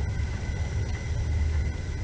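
Passenger train running: a steady low rumble heard from inside the carriage, with a faint steady high whine over it.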